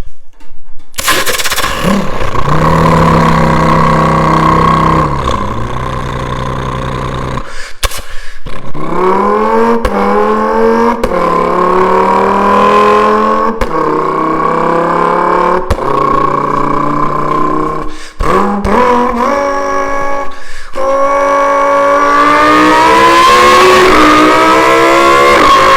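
A man's vocal impression of a Lamborghini Huracán STO's V10, revving up through the gears: the pitch climbs repeatedly, with short breaks at each upshift, and ends in a long, high rev. It echoes in a tiled public bathroom.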